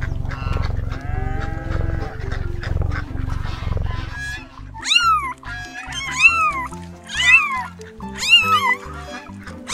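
A cat meowing over background music: after about four seconds of a low, pulsing rumble, a series of loud meows, each rising then falling in pitch, comes about once a second.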